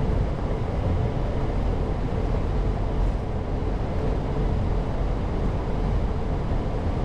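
Airbus A340-600 flight-deck noise while taxiing: a steady low rumble with a faint constant hum above it.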